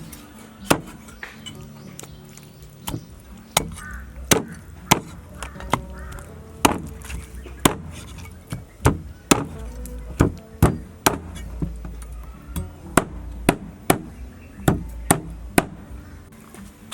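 Knife chopping on a cutting board: sharp, irregular strokes, about one or two a second, with background music underneath.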